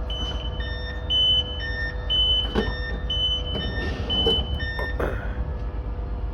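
A train's door-closing warning: a repeating pattern of short electronic beeps at two or three pitches for about five seconds, with a few knocks as the doors shut. Underneath runs a steady low engine rumble and hum.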